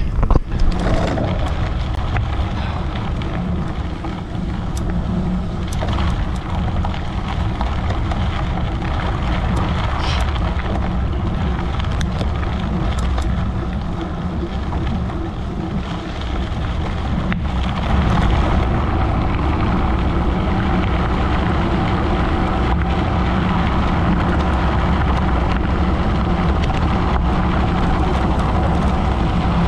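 Gravel bike riding: tyres rumbling over gravel with wind rushing over the microphone and scattered small clicks and rattles, getting a little louder and steadier about two thirds of the way through.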